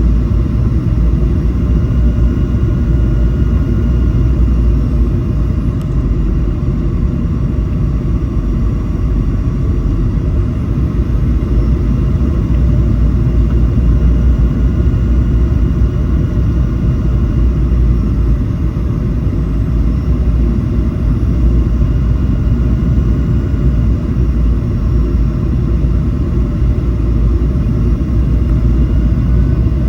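Steady low rumble of jet engines and airflow heard inside the cabin of a Boeing 737 in flight, with faint whining tones coming and going above it.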